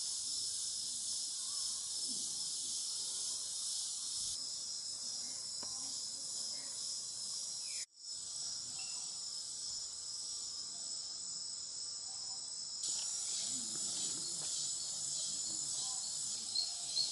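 Rainforest insect chorus: a steady high-pitched drone with a few thin, sustained whistling tones, cut off for a moment about eight seconds in.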